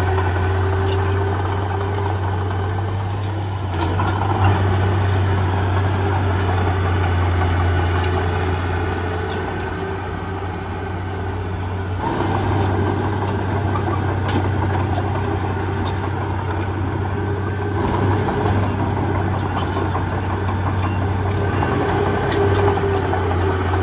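Heavy diesel engine of earthmoving machinery running steadily, with scattered light clicks and clanks over it. It eases off slightly about ten seconds in, then picks up again.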